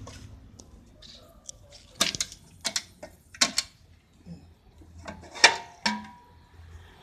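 A series of about six sharp mechanical clicks and knocks, irregularly spaced, as tools and car parts are handled; two late knocks leave a brief metallic ring.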